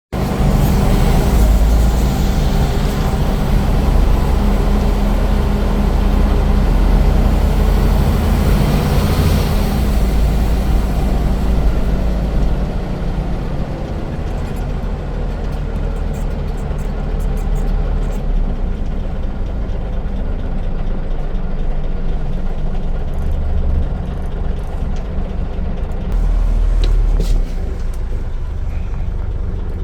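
Scania N94UD Omnidekka double-decker bus's diesel engine running, working hard with a high hiss for the first dozen seconds, then settling to a lower, steadier note, with a brief heavier pull near the end.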